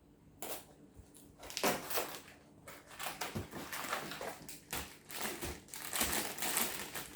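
A bag of flour being opened by hand: a run of irregular rustling and crackling of the packet.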